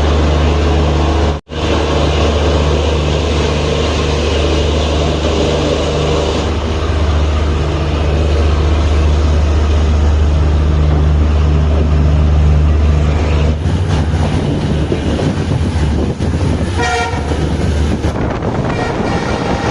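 Passenger train running, a loud steady low rumble, with a short horn toot near the end.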